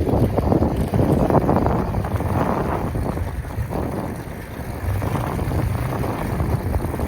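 Wind rumbling and buffeting on the microphone of a rider on a moving e-bike, with a steady low rush that eases off at the end.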